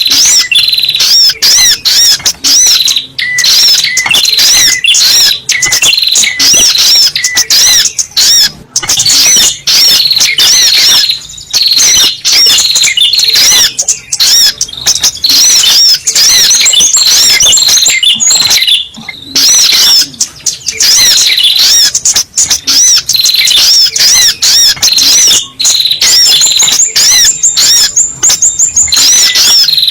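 Little spiderhunter (sogok ontong) calling in a dense, unbroken stream of sharp, high chirps, several a second, played loud as a bird-lure call.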